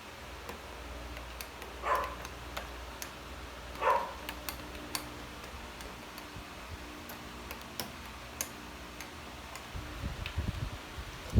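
Scattered light clicks and taps, with two louder knocks about two and four seconds in and a low rumble near the end.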